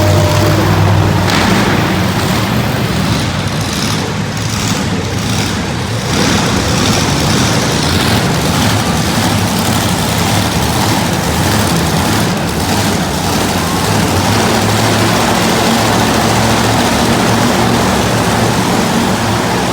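Monster truck engine running loudly in the arena, its low engine note dipping a few seconds in and coming back strongly in the second half.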